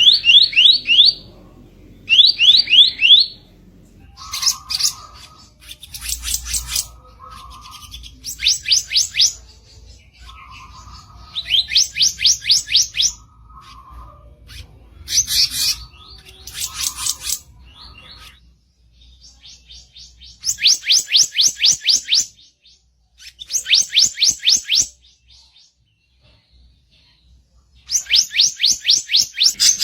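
Bar-winged flycatcher-shrike (kicap ranting) giving harsh, rapid chattering trills. The trills come in bursts of about a second each, every second or two, and some carry a lower buzzy note. There is a longer pause a few seconds before the end.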